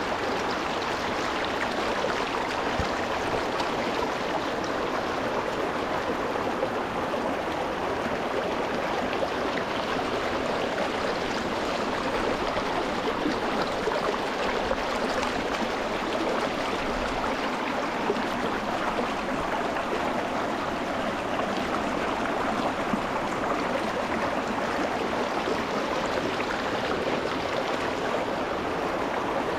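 Shallow rocky mountain stream rushing and splashing over stones, a steady, even flow recorded close to the water.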